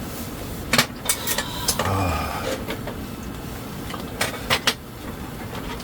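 Several sharp clinks of cutlery and dishes during a meal, in two clusters about a second in and near the four-second mark, over a steady background hum.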